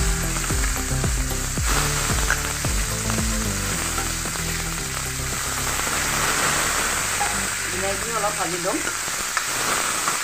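Freshly added tomato slices sizzling steadily in hot mustard oil in a wok.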